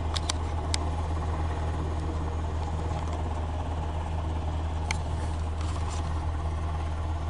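Steady low engine hum, like an engine idling heard from inside a vehicle, with a few light clicks near the start and one about five seconds in.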